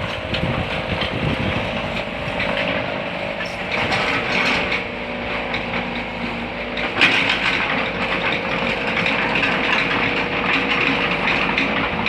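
Backhoe engine running with a steady whine, and scattered knocks and clanks; a sharper knock comes about seven seconds in.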